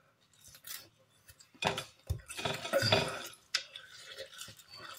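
Close-up eating sounds of someone chewing French fries put in by hand: irregular wet smacks and clicks, busiest in a stretch about two to three seconds in.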